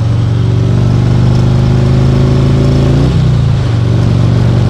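Harley-Davidson Ultra Limited V-twin engine under way, rising slowly in pitch as it accelerates, then dropping sharply about three seconds in and running steady after.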